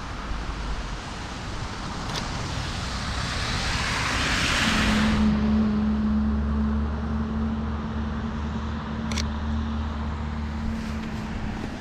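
A vehicle passes on a wet road, its tyre hiss building to a peak about five seconds in and then falling away, followed by a steady low engine hum.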